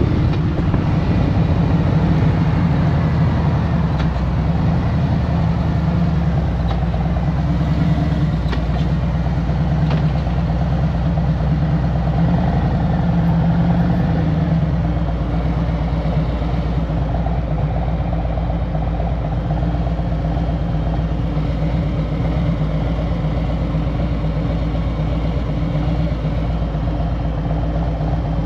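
Harley-Davidson Road Glide Special's Milwaukee-Eight 114 V-twin running at low, steady revs, easing slightly about halfway through.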